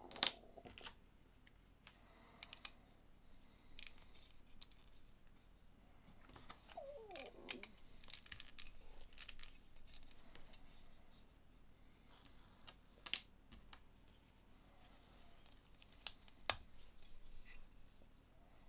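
Plastic LEGO pieces being handled and pressed together: scattered faint clicks and taps, with a short falling squeak about seven seconds in.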